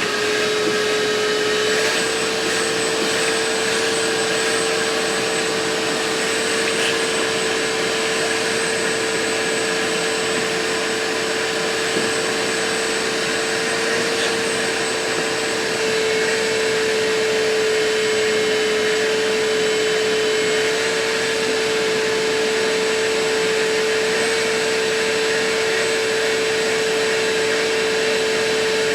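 Vacuum cleaner running steadily as the truck's interior is vacuumed, its motor holding a steady whine over the rush of air.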